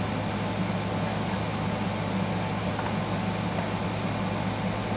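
Steady low mechanical hum in the room, unchanging throughout, with no distinct clicks or knocks.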